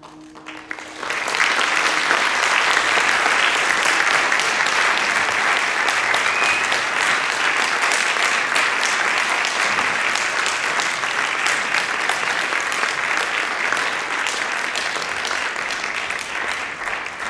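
Audience applauding: the last notes of the music die away and clapping swells within the first second or two, then keeps up steadily before tapering off near the end.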